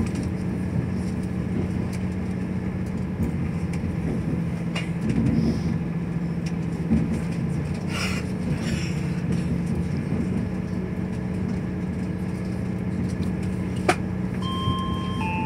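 Inside a moving diesel passenger train: a steady engine hum and rumble from the running gear, with a few short clicks. Near the end a two-note public-address chime sounds.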